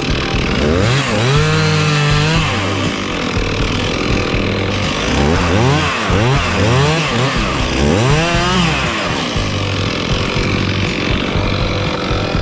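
Two-stroke chainsaw cutting wood, its engine revving up and down several times as the saw bites in and eases off.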